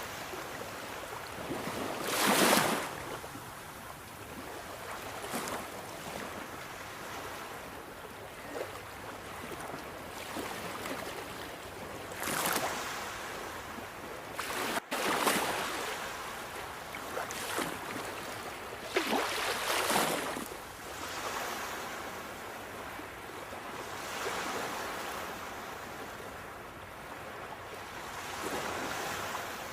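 Sea waves washing onto the shore: a steady hiss of surf with several louder surges as waves break, the loudest about two seconds in.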